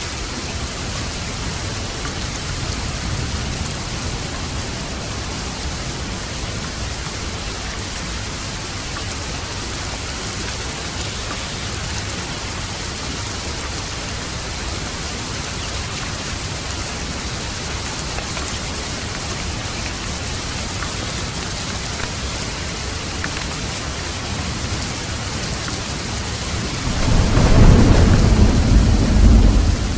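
Steady heavy rain falling, with a loud low rumble of thunder swelling up near the end.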